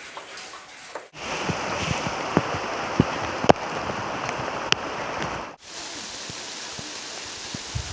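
Heavy rain falling, a dense steady hiss with loud single drops striking a nearby surface. It breaks off abruptly about a second in and again after five and a half seconds, where it goes on quieter.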